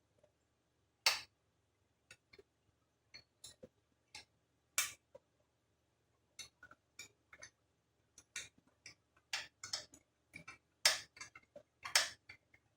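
Irregular small metal clicks and clinks of hand tools and parts being handled while a small ATV carburetor is taken off, with a few louder sharp knocks about one, five, eleven and twelve seconds in.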